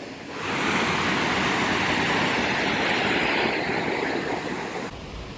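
Rushing water of a waterfall or mountain river: a steady hiss that starts abruptly, eases off and then cuts off suddenly near the end.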